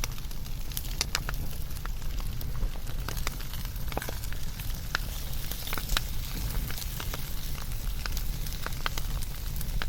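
Wood fire burning, with irregular sharp crackles and pops over a steady low rumble and hiss of the flames.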